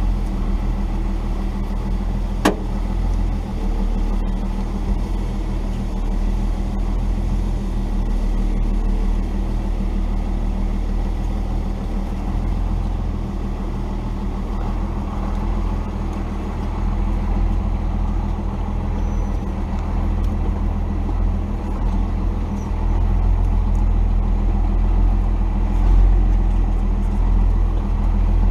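1990 Dodge D250's Cummins straight-six turbodiesel running steadily at low speed on a rough trail, growing a little louder near the end. A single sharp click comes a few seconds in.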